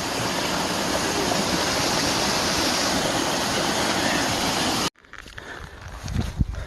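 Rushing creek water, a steady hiss from a stream running high after heavy rain. About five seconds in it cuts off suddenly, and quieter low bumps and rustling follow.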